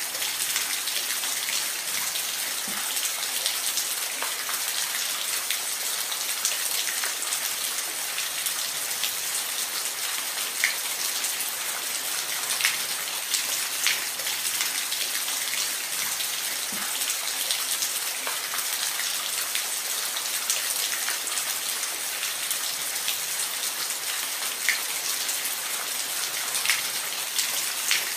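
Steady rain falling, an even hiss with scattered individual drops ticking more loudly every second or so.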